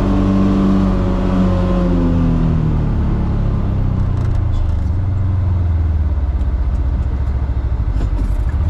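Polaris Xpedition side-by-side engine running. Its pitch falls over the first three seconds as it slows, then it runs low and pulsing at low speed.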